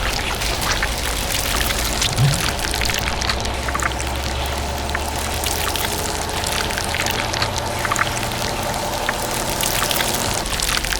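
Steady pouring, rushing noise flecked with small clicks, over a continuous low machine hum.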